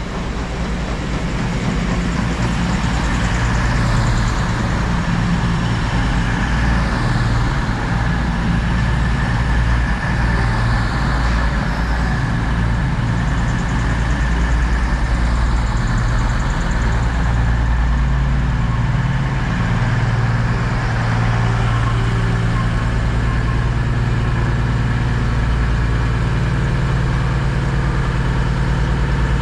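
Class 222 Meridian diesel multiple unit's underfloor diesel engines running at a standstill with a steady low drone. The drone grows louder over the first few seconds, then holds steady.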